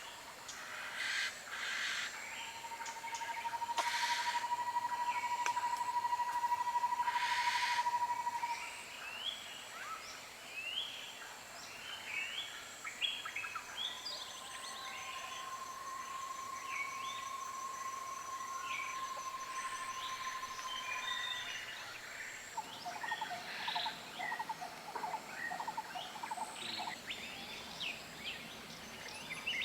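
Tropical forest birdsong: many short chirps and calls, with a long steady whistled note held for about six seconds, heard twice, and a quick run of lower notes near the end.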